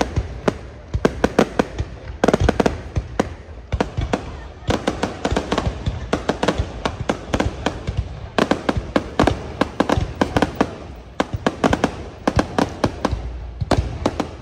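Aerial fireworks display bursting in dense volleys of many rapid cracks and bangs, broken by brief lulls.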